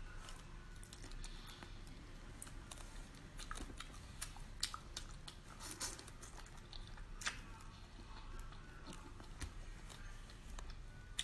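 Close-up mouth sounds of eating raw marinated prawns: chewing and biting, with many scattered short sharp clicks and crackles.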